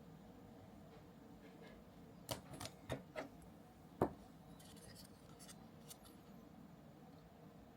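Small kit parts and tools being handled on a workbench: a quick run of light clicks and taps, then one sharper tap about four seconds in, and a few faint ticks after.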